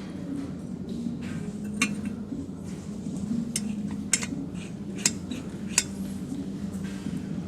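Metal tools and parts clinking: several sharp, separate clinks a second or so apart over a steady low hum.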